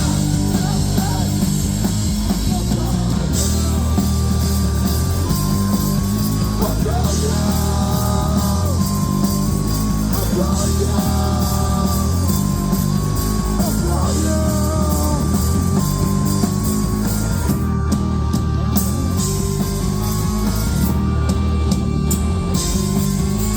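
Live rock band playing loud, with electric guitar and bass.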